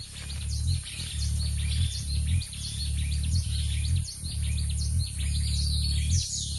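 Hummingbird hovering: the low hum of its wings, breaking off briefly every second or so, with many quick high-pitched chirps over it.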